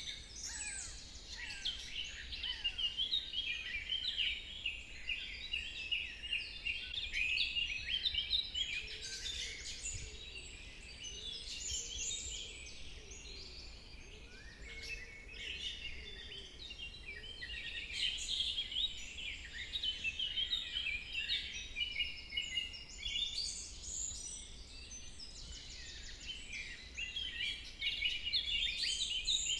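A forest bird chorus: many birds singing at once in a dense, unbroken mix of quick chirps and trills that swells and eases, with a fainter lower call between about 9 and 16 seconds in.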